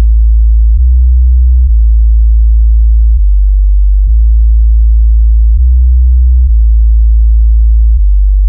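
Loud, deep bass tones for a low-frequency sound check: steady tones well below 100 Hz that step between a few low pitches about every second or so.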